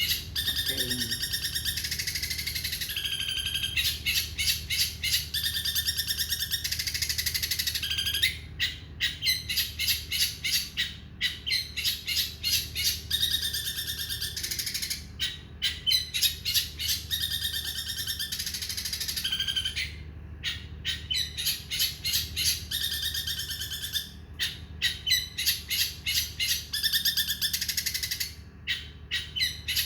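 Long-tailed shrike (cendet) singing a fast, varied song: quick runs of rapidly repeated high notes and chattering phrases, broken by a few short pauses.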